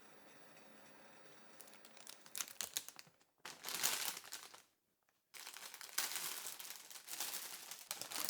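Crinkling and crumpling of thin packaging such as paper or plastic, handled in three spells of crackly rustling after a faint steady hum.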